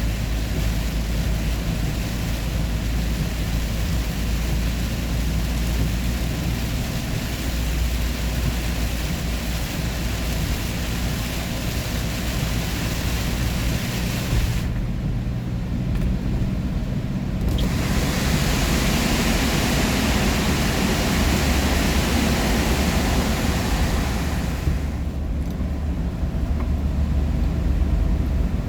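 Steady road and engine noise of a vehicle driving at speed, a low rumble under a broad hiss. The hiss thins out briefly twice, about halfway through and again near the end.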